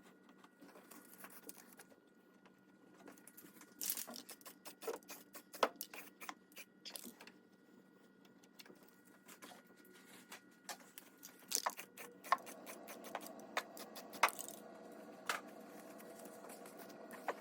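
Scattered light clicks, knocks and scrapes of small objects being handled, irregular rather than a steady rhythm. A faint steady hum comes in about twelve seconds in.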